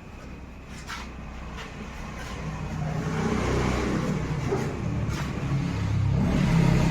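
A motor vehicle's engine running, its rumble growing steadily louder over the last few seconds, as of a vehicle drawing near or being revved.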